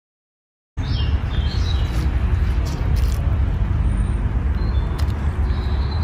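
Silent at first, then from about a second in birds chirp in short calls over a steady low rumble, with a few faint clicks.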